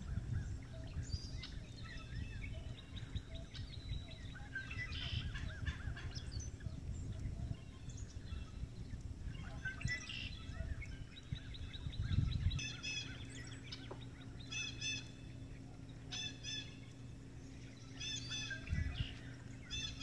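Birds calling in short groups of quick repeated notes, more often in the second half, over a low rumbling background noise.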